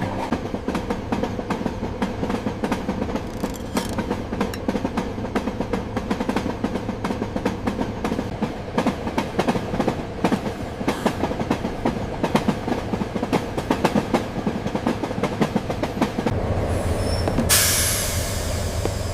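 Passenger train running on the rails: a dense clatter of wheels over the track over a steady rumble. Near the end a low hum joins in and a loud hiss starts.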